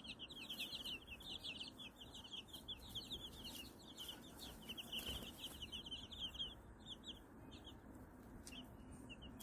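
White Silkie chicks peeping: a rapid, continuous run of short high-pitched chirps that thins out to a few scattered peeps after about six and a half seconds.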